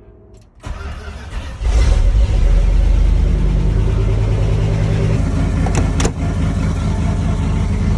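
Old Dodge pickup's engine being cranked by the starter and catching within about a second, then running loud and steady at a high idle. A few sharp clicks come about six seconds in.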